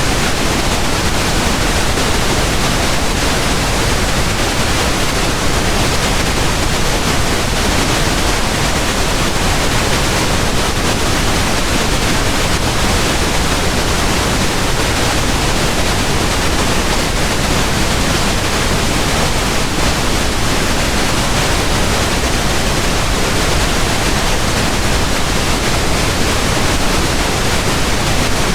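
Steady pink noise: an even, unchanging hiss spread across all pitches, with no events.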